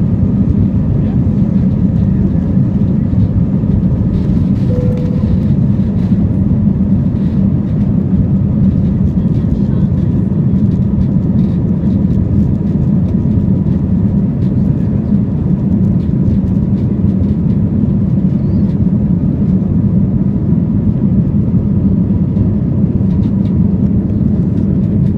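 Steady rumble of an Airbus A320's engines and rushing air heard inside the passenger cabin, loud and even, with a faint steady whine above it.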